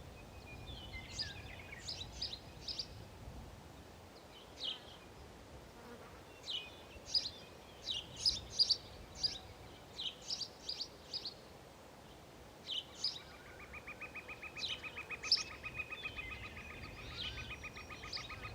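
Small songbirds chirping with short, high notes. About two thirds of the way in, a fast buzzing trill starts and keeps going to the end.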